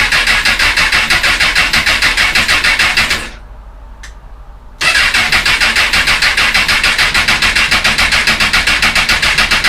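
Honda CBR1000RR's inline-four turned over on its electric starter in two long cranking bursts, a fast, even chug without the engine catching. It is a no-start that the owner puts down to the fuel cut-off valve being fitted upside down, so the engine is getting no fuel.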